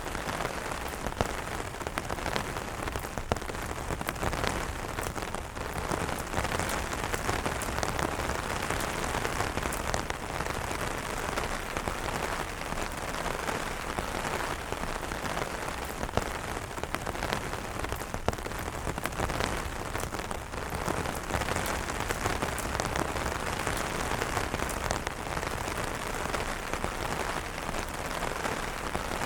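Steady rain falling on umbrellas, a dense even patter with many individual drops ticking sharply on the fabric.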